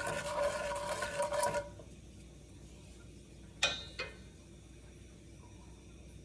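A spoon stirring and scraping around a metal pot, the pot ringing, for a little under two seconds. A few seconds in come two sharp taps of the spoon on the pot.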